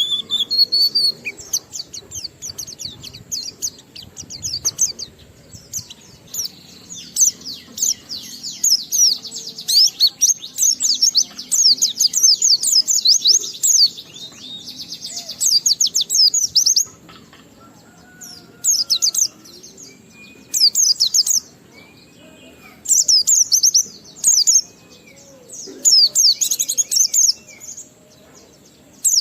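White-eye (pleci) in full song: a long, fast twittering run of high, quickly falling notes. It sings without a break for the first half, then in short bursts with brief pauses between them.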